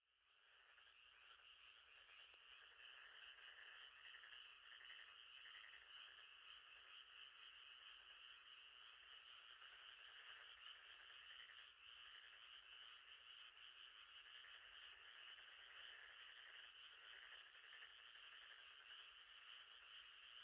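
Faint, steady night chorus of frogs calling at a lakeside, a dense trilling hum that fades back in from a brief dropout at the start.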